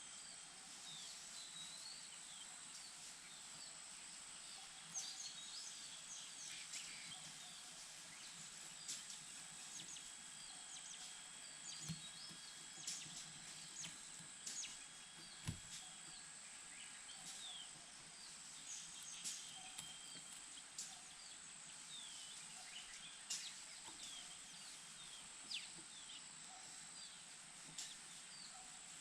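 Faint outdoor ambience: scattered short, high bird chirps over a steady high-pitched hiss, with a couple of soft low thumps.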